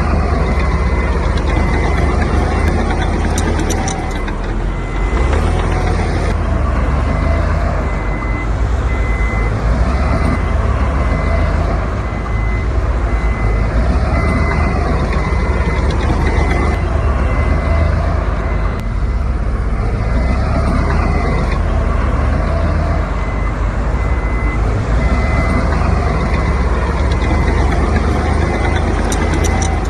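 Heavy diesel earthmoving machinery running loudly and steadily, with a reversing alarm beeping at regular intervals over the engine noise.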